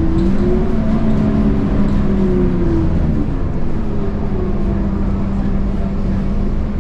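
Scania K230UB bus's 8.9-litre Scania DC9 diesel engine pulling under throttle through its ZF Ecomat 6HP502C automatic gearbox. The engine note jumps up just after the start, as in a kickdown, climbs, then drops a little before three seconds in as the gearbox shifts up, and runs on at a lower steady pitch.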